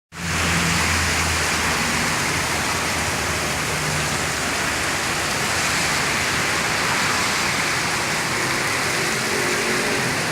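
Heavy rain falling steadily, an even hiss of downpour. A faint low hum sits underneath at the start and again near the end.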